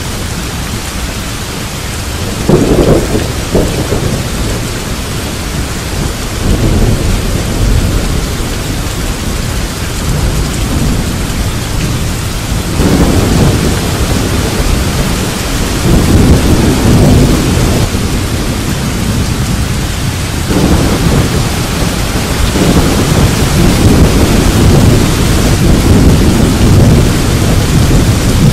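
Steady heavy rain hiss with rolls of thunder rumbling several times, the longest run of rumbling in the second half.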